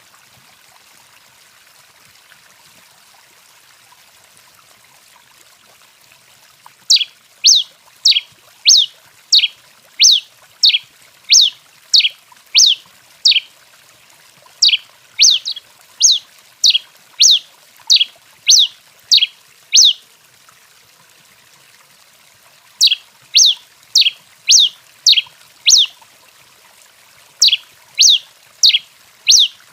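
Tico-tico-rei, a Coryphospingus finch, singing a long run of sharp, downward-sweeping notes, about one and a half a second. The song starts about a quarter of the way in, stops for a few seconds after the middle, then resumes in two shorter runs.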